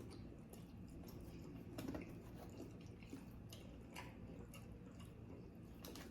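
Faint close-up chewing of a mouthful of soft, cheesy pizza roll casserole, with scattered small wet mouth clicks.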